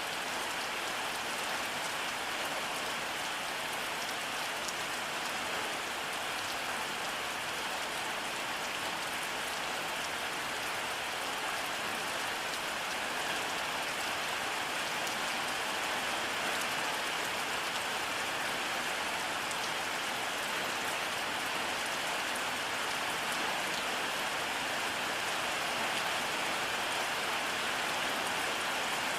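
Steady rainfall: an even, unchanging hiss with fine ticks of individual drops.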